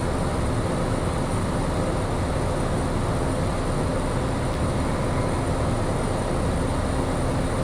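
Piper single-engine light aircraft's piston engine and propeller running at a steady drone, heard from inside the cockpit.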